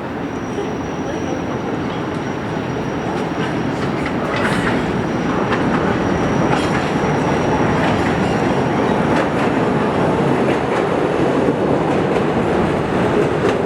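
Budd 2600-series CTA 'L' train pulling in: a rumble of steel wheels on rail that grows steadily louder, with repeated clicks from the wheels and a faint thin high tone over most of it.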